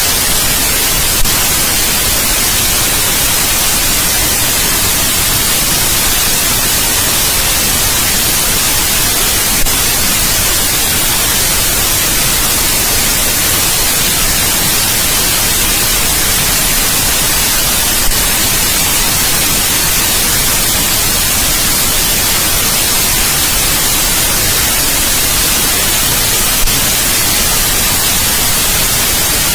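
Steady white noise: an even, unbroken hiss, brightest in the treble. Four brief faint clicks come at regular intervals, about one every eight and a half seconds.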